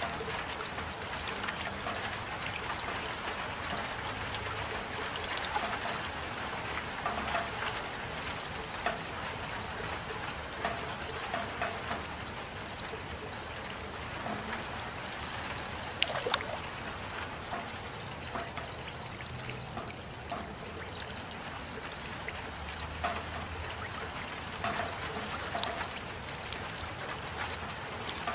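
Rain falling steadily, with water trickling and many small drops plinking, one a little sharper about halfway through.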